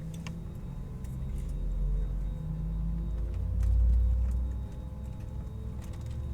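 Airbus A321neo jet on its takeoff, heard as a deep, low rumble that swells about two seconds in, peaks about four seconds in and then eases. A few light clicks sound over it.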